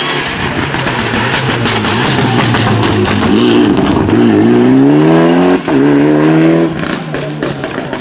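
Rally car passing under hard acceleration. Its engine revs climb, cut briefly at a quick upshift about five and a half seconds in, and climb again before the car pulls away and the sound fades.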